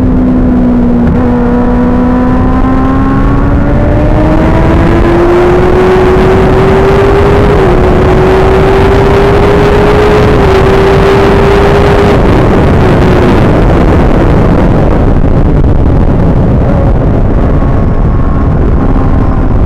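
Suzuki GSX-R1000 inline-four engine at full throttle, its note climbing steadily for about ten seconds with two quick upshifts, under heavy wind rush that grows with speed. The engine note then sinks into the wind noise and returns as a steady note near the end.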